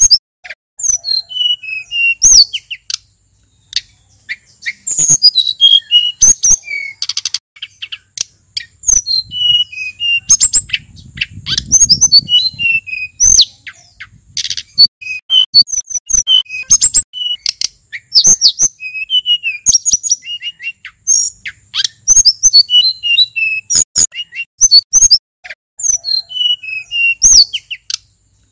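Male sulingan gunung singing a fast, varied song of high chirps and whistles, with almost no pause.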